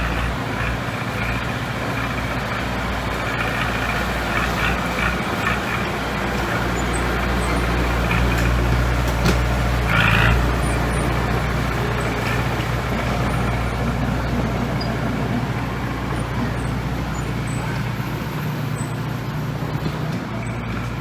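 Heavy diesel engine of a bulldozer or dump truck running steadily, with a short sharper burst of sound about ten seconds in.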